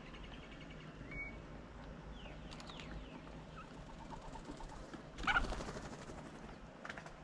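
Wild birds calling around a garden bird table: scattered short chirps and quick whistled notes, with one louder call about five seconds in.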